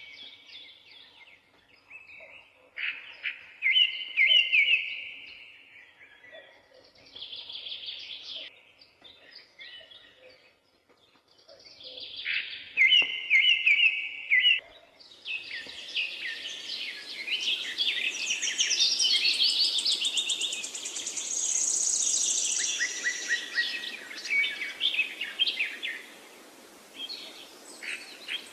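Forest birds singing: separate trilled phrases with pauses between them at first. About halfway a denser chorus of overlapping songs begins over a steady hiss, with a high buzzing note in it.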